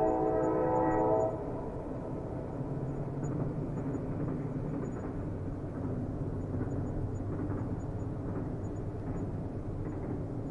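Train horn holding a steady chord that cuts off about a second in, then the steady low rumble of a train running on the rails.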